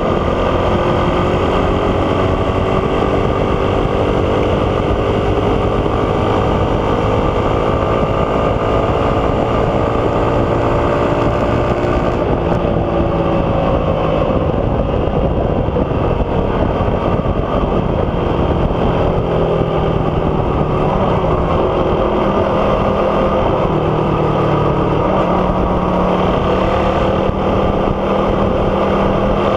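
Suzuki Raider 150's single-cylinder four-stroke engine running through an aftermarket big-elbow, big-tip exhaust with no catalytic converter, loud and steady. Its pitch rises and falls with the throttle.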